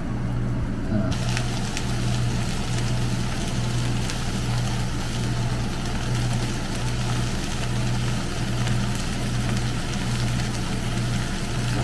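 Stir-fried yakisoba noodles, chicken and vegetables sizzling steadily in a frying pan, over a constant low hum.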